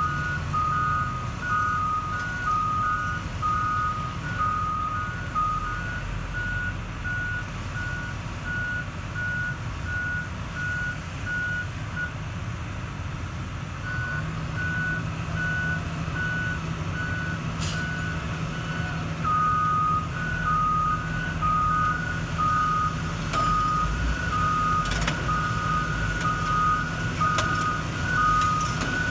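Two backup alarms on heavy construction machines beeping at slightly different pitches. They overlap, then drop out and resume at different times, over the steady running of diesel engines.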